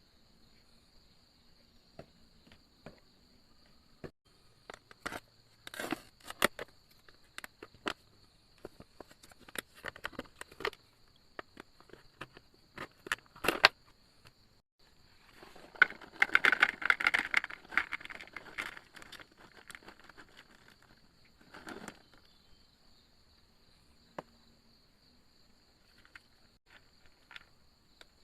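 Insects trilling steadily on one high note, with scattered sharp clicks and knocks, and a few seconds of dense rustling crackle about halfway through.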